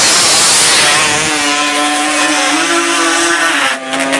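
Racing ATV engine running hard at high revs during a drag run: a loud rush at first, then a steady high engine note that steps up a little about halfway and drops near the end, where a rapid rattling firing sound comes back.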